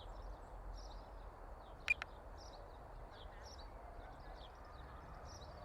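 Faint outdoor ambience: birds chirping in short, repeated calls over a steady low background hum, with a single sharp click about two seconds in.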